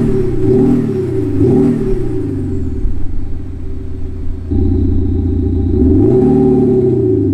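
Audi A6 Allroad engine revved repeatedly while standing, its note boosted by an aftermarket Active Sound Gateway sound actuator in the exhaust: each blip rises and falls in pitch about once a second. In the middle the revs hold steadier and step up in loudness about four and a half seconds in, then the blips resume.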